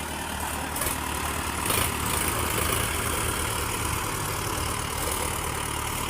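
Tractor diesel engine running steadily at a low, even rumble, with brief hissy noises about one and two seconds in.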